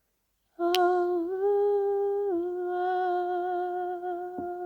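A woman's voice humming one long sustained note, unaccompanied. It starts about half a second in, steps up slightly, then settles back down and is held steadily. A brief click comes just after the note begins.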